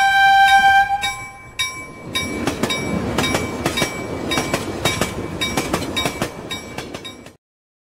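A locomotive horn sounds one steady note for about a second and a half. Then a train rushes past, its wheels clicking over the rail joints, until the sound cuts off suddenly near the end.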